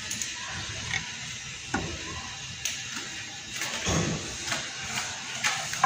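Hand saw rasping back and forth through a wooden block in repeated strokes, over background music. The saw barely bites, which the sawyer blames on the saw not cutting.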